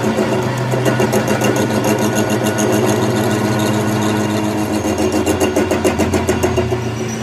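A machine running steadily with a low hum and a rapid, even pulsing.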